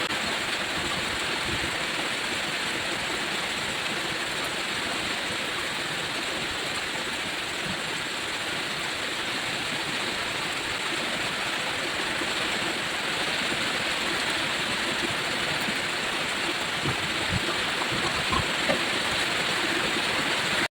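Heavy rain falling steadily: a dense, even hiss of pouring water, with a few faint knocks near the end.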